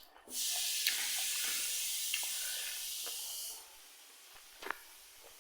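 A steady hiss that starts suddenly, holds for about three seconds and then stops, followed by a single faint click near the end.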